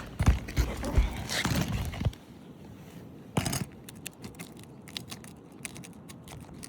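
A steel roof snake being worked under asphalt shingles: knocks and scraping for about the first two seconds, a sharp pop about three and a half seconds in, then a run of small clicks and crackles as the shingle is pried up and its seal strip unsealed.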